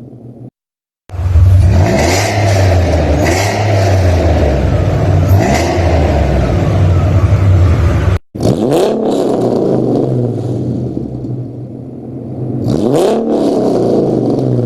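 Ford Mustang 4.0 V6 with an aftermarket exhaust, being revved repeatedly in short throttle blips. The sound cuts out briefly about half a second in and again around eight seconds in, where clips are spliced. It revs again after each cut, with a longer rev near the end.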